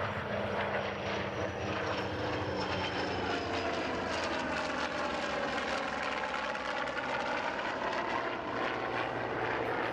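Radial-engine propeller warbirds and jets flying past together. Steady aircraft engine noise, its tones sweeping down and back up in pitch as the formation passes.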